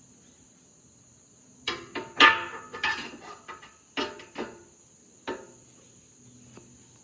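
A run of sharp metallic knocks and clanks, several ringing briefly, from about two to five seconds in, as parts on a mini excavator are handled. Under them runs a steady, high chirring of crickets.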